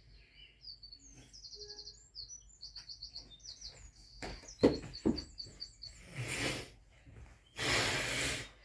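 Small songbird chirping, quick runs of short high notes repeated over and over. A few sharp knocks about halfway through, then two bursts of rushing noise near the end.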